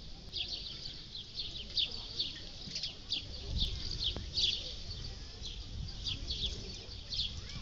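A chorus of small birds chirping: many short, high chirps overlapping without a break, over a low background rumble.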